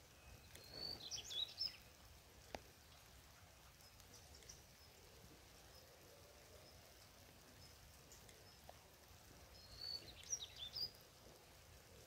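A bird calling twice, the same short run of quick chirping notes about nine seconds apart. Under it is a faint steady hiss of rain, with an occasional single drip.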